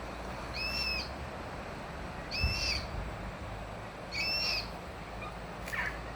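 Black cockatoos calling: three drawn-out, arching calls about two seconds apart, then a couple of short falling notes near the end. A soft low bump sounds with the second call.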